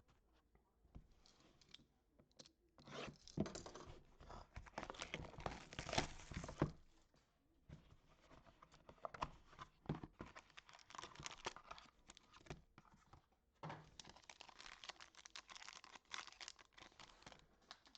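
Trading-card box and pack wrapping being torn open and crinkled by hand in two long stretches, with small clicks and handling noises between them.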